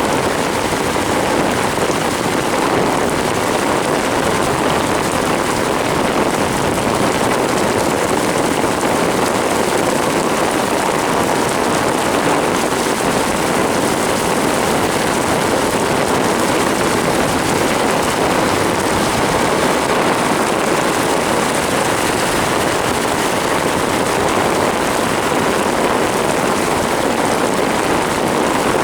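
Torrential rain and water hitting a moving car, a loud, steady, dense rushing noise that does not let up.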